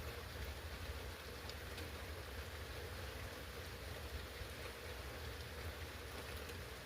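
Steady rain falling, with a few faint drop ticks over a constant low rumble.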